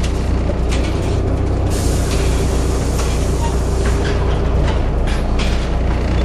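Volvo B7TL double-decker bus running, heard from on board: the six-cylinder diesel's steady low drone, a steady whine, and scattered rattles. The uploader puts a whistling noise from this bus down to a bad differential.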